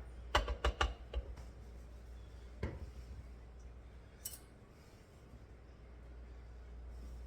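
Kitchen utensils clinking against dishes: a quick run of about five clinks in the first second or so, then a single clink near three seconds and a lighter, higher one a little past four seconds.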